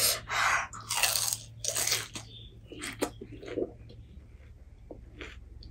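Crunching and chewing a mouthful of pani puri: the crisp puri shell cracks in several loud bursts over the first two seconds, then quieter chewing.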